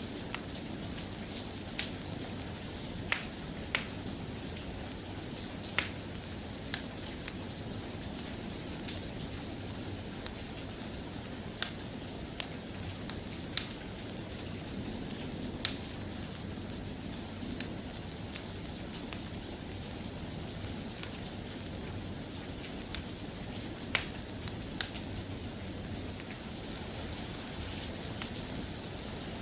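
Steady soft rain, with sharp single pops or ticks scattered irregularly, a second or two apart.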